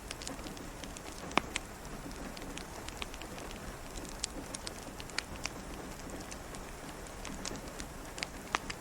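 Steady rain falling, with scattered sharp taps and pops at irregular moments, the loudest about a second and a half in.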